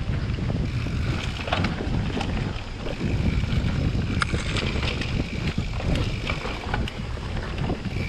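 Wind buffeting the microphone as a mountain bike rolls along a trail, a steady low rumble with scattered sharp clicks and rattles from the bike.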